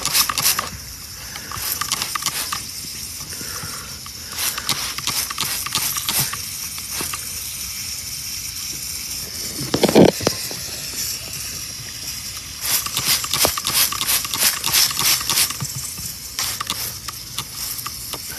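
Refrigerant hissing out of a leak in an air-conditioning line, with irregular crackling as the gas blows through leak-detection bubble solution. A brief knock about ten seconds in.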